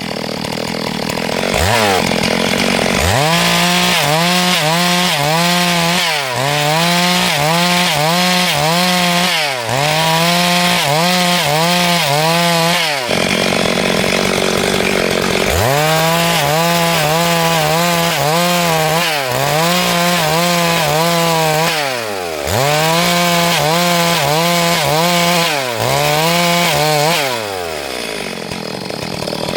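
Two-stroke chainsaw ripping lengthwise through a log at full throttle, its engine pitch dipping and recovering in quick waves under the cutting load. It drops back to idle twice, about halfway through and near the end, then revs up again.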